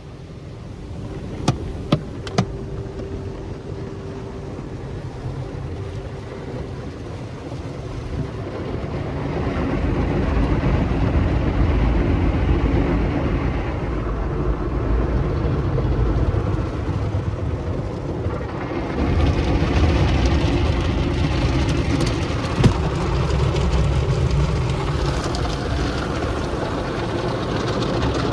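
Tunnel car wash equipment running: a steady rush of spraying water and spinning machinery that grows louder about nine seconds in and again near nineteen seconds, with three sharp clicks about two seconds in.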